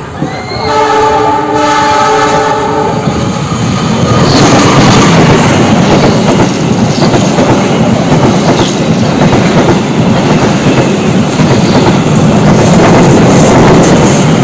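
Diesel locomotive's horn sounding a multi-tone blast for the first few seconds, then the locomotive and its passenger coaches passing close by: a loud, steady rush of engine and steel wheels on rail with the clickety-clack of wheels over rail joints.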